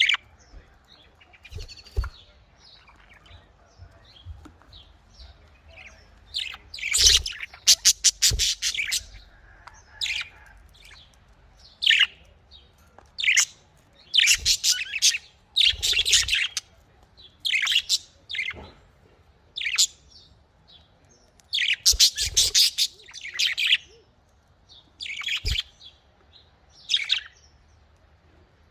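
Budgerigars chirping and chattering in bursts of quick, high calls, with short pauses between the flurries.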